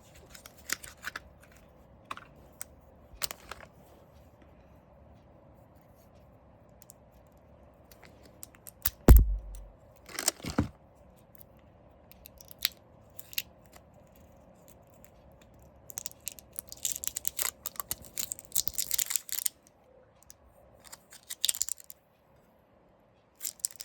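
Plastic-wrapped drill bit sharpener parts being handled and unwrapped: scattered clicks and taps, one heavy thump about nine seconds in, then bursts of plastic wrapping tearing and crinkling in the later seconds.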